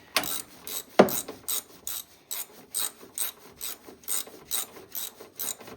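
Socket ratchet wrench clicking in quick, even strokes, about three a second, as a bolt or spark plug is turned.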